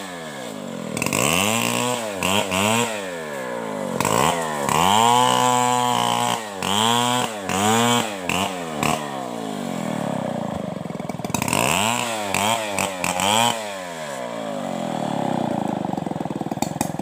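Two-stroke chainsaw, a Stihl 070, revved up and down over and over, its pitch climbing and dropping about eight times as the throttle is opened and released. Near the end it settles into a lower, steadier run with a fast ticking.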